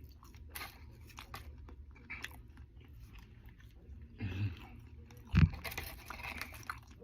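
Close-up chewing and mouth sounds of someone eating, with small wet clicks, a brief vocal sound a little after four seconds in and a single low thump about five and a half seconds in.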